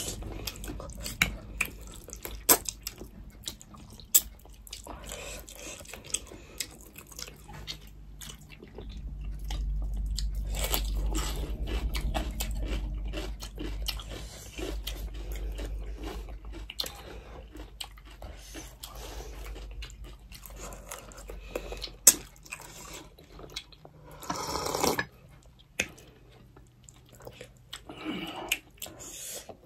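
Close-miked eating sounds: chewing, crunching and wet mouth smacks and clicks as two people eat rice, fish and fried bitter gourd by hand. A low rumble runs for several seconds in the middle, and a short louder noisy burst comes near the end.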